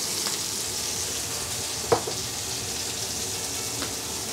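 Lamb chops sizzling steadily in hot oil in a non-stick pan, with a sharp click about two seconds in and two fainter ticks.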